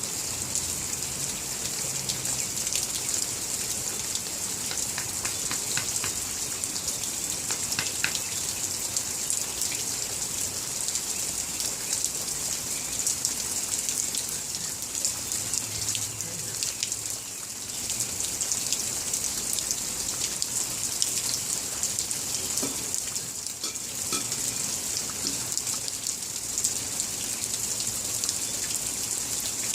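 Light rain falling steadily, many small drops ticking on surfaces close by.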